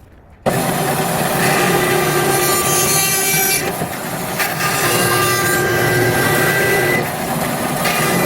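Electric grinder grinding steel, a steady whine with a rasping grind that starts abruptly about half a second in and dips slightly a few times as the pressure on the work changes.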